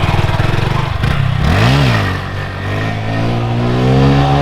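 Honda Grom's small single-cylinder engine idling, then revved once in a quick blip about a second and a half in, then held at a steady higher rev.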